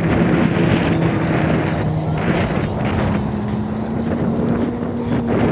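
An engine running steadily at an even pitch, with wind noise on the microphone.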